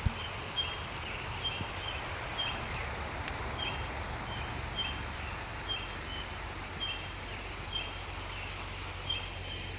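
A bird calling repeatedly with short, high chirps, often in pairs, about once a second, over a steady outdoor hiss of moving water.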